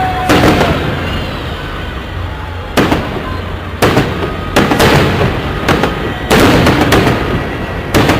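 Fireworks salute going off: a string of sharp bangs, roughly one a second, over a steady low rumble.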